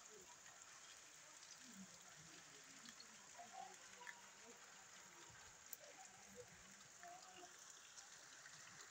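Faint, steady hiss of rain falling on flooded ground and standing water.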